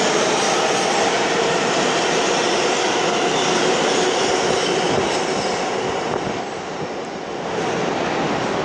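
NYC subway L train running through an underground station: a steady loud rumble of wheels on rail with several held whining tones. The noise dips briefly about six seconds in and then picks up again.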